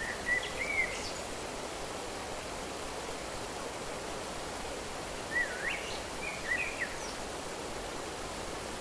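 Steady hiss of running water with a songbird calling in short twittering phrases twice, just after the start and again about five seconds in.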